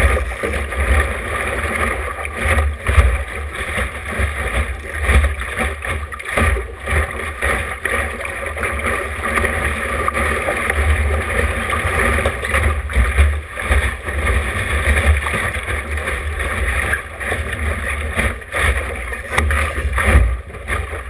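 Wind buffeting the action camera's microphone in gusts, over a steady rush of water along the hull of a small sailboat under way.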